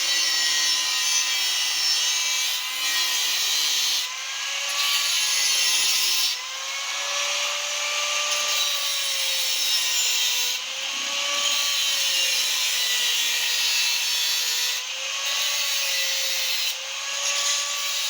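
A power tool working metal for a homemade motorcycle exhaust baffle pipe: a steady hiss of cutting or grinding over a motor whine that repeatedly dips and recovers as it is loaded.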